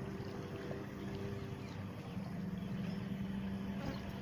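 A motor hums steadily over outdoor background noise, growing a little louder about halfway through.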